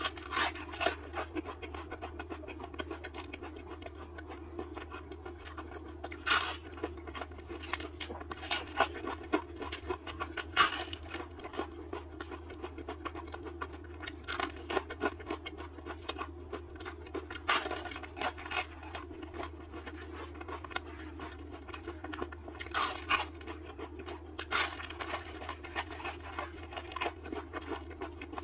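Close-miked crunching and chewing of a crispy deep-fried spiral potato on a skewer: many sharp crunches in irregular clusters.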